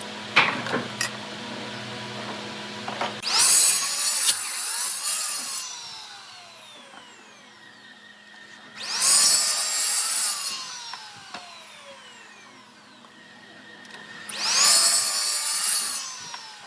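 A power tool cutting wood in three bursts of about two seconds each, roughly five seconds apart. Its motor winds up at the start of each cut and spins down in a falling whine afterwards.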